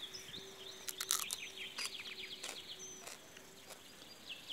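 Small birds chirping in quick runs of short falling notes, with a few sharp clicks about a second in.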